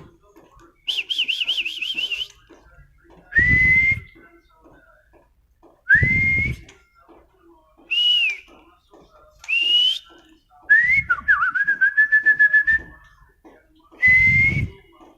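White-rumped shama (murai batu) singing: a string of loud, separate whistled phrases every couple of seconds, including a fast warbling trill, clear rising whistles, and a whistle that breaks into a rapid rattle. Several of the whistles come with a low thump.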